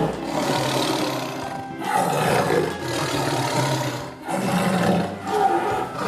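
Lion roaring several times in a row, each roar about a second long, as a recorded sound effect over light background music.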